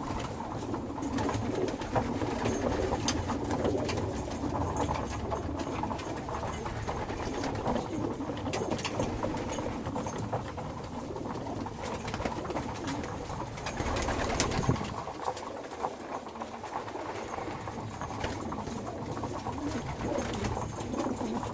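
Racing pigeons cooing together, a continuous murmur with scattered sharp clicks and taps throughout. A louder rustle comes about fourteen seconds in.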